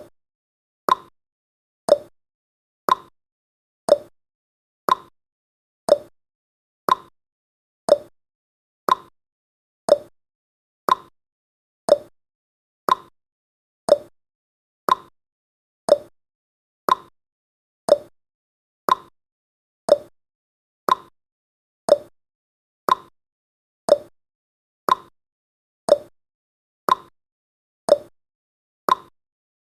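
Clock-style ticking sound effect of a countdown timer: one sharp tick every second, alternating higher and lower in pitch like a tick-tock.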